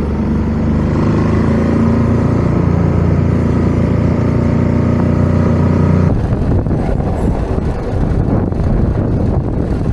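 Ducati Scrambler 1100's twin-cylinder engine running at a steady speed. About six seconds in, it gives way abruptly to strong wind buffeting the microphone.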